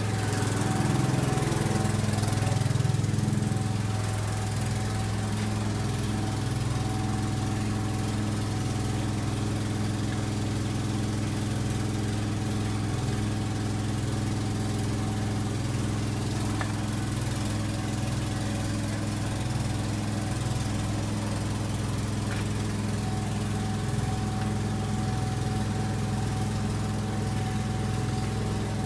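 7.8L Ford diesel engine idling steadily, a little louder for the first few seconds.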